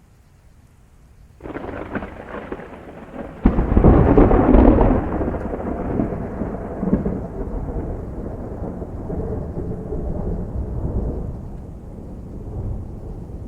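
Thunder from a derecho thunderstorm over steady rain: a sudden crack about a second and a half in, a louder clap about two seconds later, then a long rumble slowly dying away.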